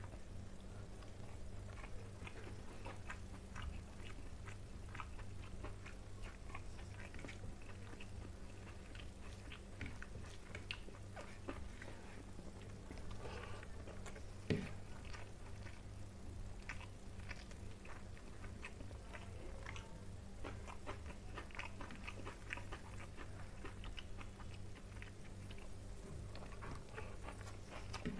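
A person chewing rice and fish with the mouth close to the microphone: many small, irregular wet clicks and smacks over a steady low hum, with one sharper click about halfway through.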